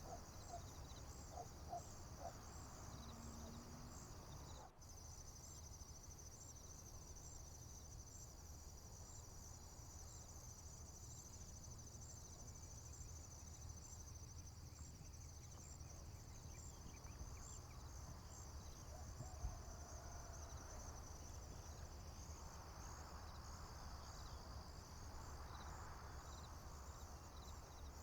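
Faint steady chorus of crickets and other field insects, a high trill with evenly pulsing chirps. Low wind or distant rumble sits underneath, with a few faint bird calls near the start and a brief dropout about five seconds in.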